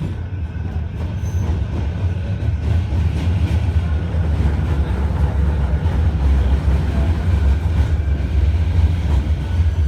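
Manchester Metrolink tram running along the track, heard from inside the car: a steady low rumble of wheels and motors that grows gradually louder as it picks up speed.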